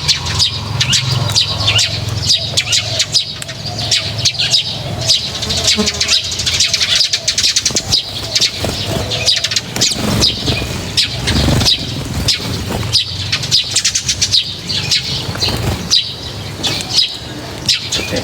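Small birds chirping and tweeting continuously at a feeding spot, many short calls in quick succession, over a low steady hum.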